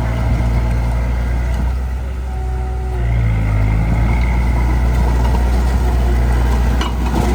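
Heavy-equipment diesel engine running steadily, easing off briefly about two seconds in and picking up again about a second later. A single knock comes near the end.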